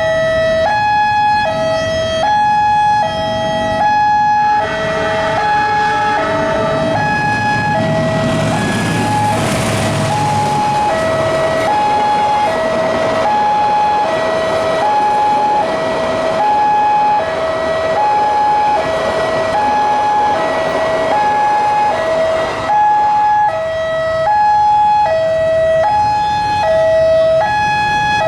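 Railway level-crossing warning alarm sounding continuously, two electronic tones alternating high-low about once a second, meaning the barriers are down for a train. Partway through, a train passes over the crossing: a diesel locomotive's engine and wheel noise swell up, loudest about a third of the way in, then fade under the alarm.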